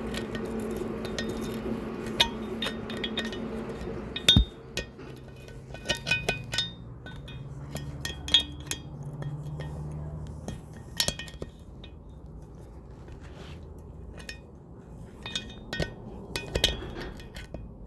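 Irregular light metallic clinks and taps of steel tools and small valve parts against the cylinder head while the valve seals are being removed, each with a brief ring. A steady hum runs underneath for the first four seconds or so.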